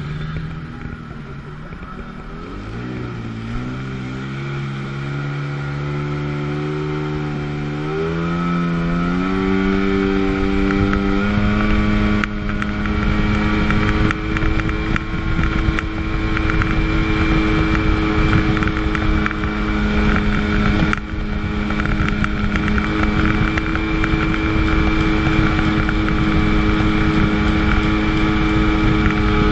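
1997 Sea-Doo GTS's 720 two-stroke twin engine accelerating, its pitch climbing in several steps over the first ten seconds or so, then running steady at high revs with a brief dip about twenty seconds in.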